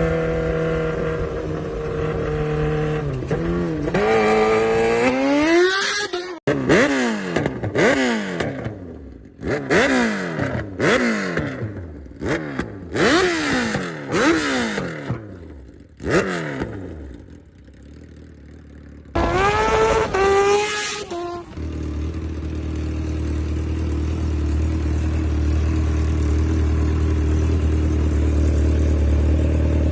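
Kawasaki Ninja H2's supercharged inline-four with an aftermarket Vandemon exhaust: running steadily, then revved up and blipped hard about seven times in quick succession, each rev rising and dropping straight back, with one more rev later on. It then settles into a steady low drone.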